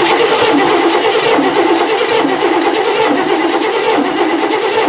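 Cadillac 472 V8 being cranked over by its starter for a compression test, a steady, loud, pulsing cranking sound without the engine catching.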